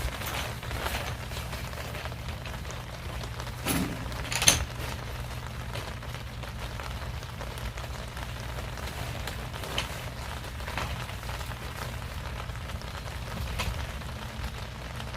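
Rain falling steadily, with a few sharp knocks or drips, the loudest about four and a half seconds in.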